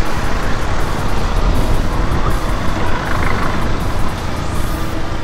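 Motorcycle on the move: wind rushing over the microphone and the engine running, a loud even rumble.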